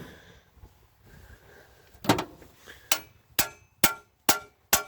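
A knock, then a steady series of light metal-on-metal clinks, about two a second, each with a short ringing tone: a small steel engine part being tapped or bounced.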